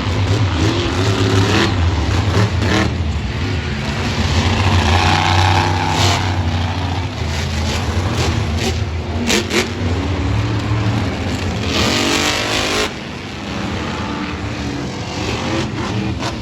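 Monster truck engines running loudly, with scattered pops and a rising rev about twelve seconds in.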